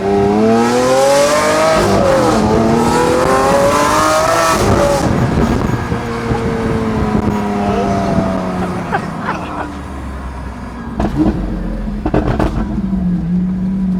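Lamborghini V12 accelerating hard, its note rising through one gear, dropping at an upshift about two seconds in and rising again, then easing off to a lower, steadier cruise. Two sharp cracks come near the end.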